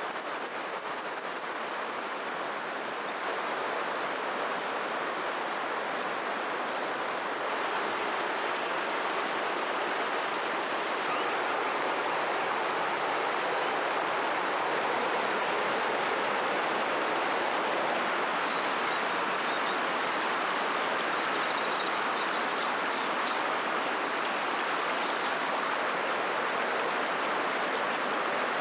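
River water flowing steadily, growing a little louder over the first several seconds. A few brief high chirps sound at the start and faintly near the end.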